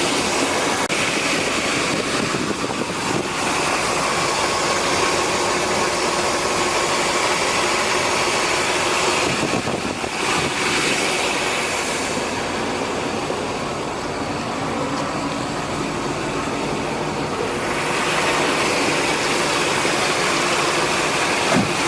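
1963 Corvette's 327 cubic-inch, 340-horsepower V8 idling steadily.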